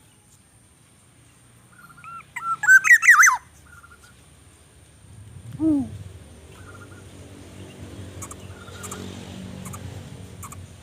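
Birds calling: a loud, rapid burst of high chirping calls about two seconds in, then a single short falling low note. A faint short call repeats every couple of seconds, and a low rumble runs through the second half.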